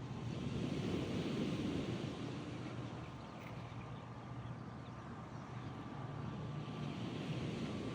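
Ocean surf washing ashore with wind, swelling about a second in and again near the end, over a faint steady hum.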